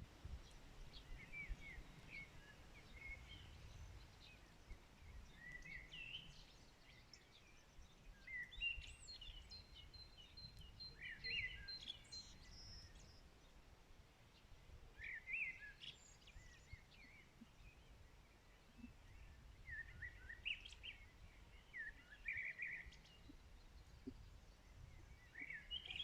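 Several small songbirds chirping and calling on and off, with a quick, evenly spaced high trill near the middle, over a faint low rumble.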